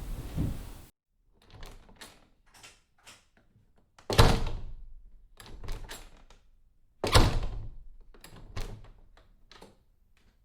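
A door being shut and locked, twice: each time a loud slam, about four and seven seconds in, followed by several clicks of the latch and lock. Lighter clicks of the mechanism come before the first slam. At the very start the tail of a different door closing ends abruptly.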